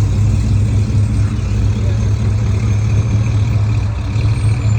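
A road vehicle's engine running at a steady low idle close by, a constant low hum with no rise or fall.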